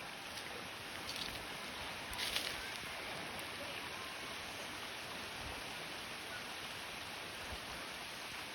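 Steady rushing of flowing river water, with a couple of faint short clicks about one and two seconds in.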